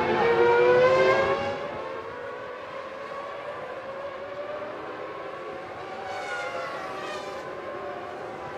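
Formula One race car engines at high revs: a loud, rising whine as a car accelerates past in the first second and a half, then quieter engine sound with another rising whine about six to seven seconds in.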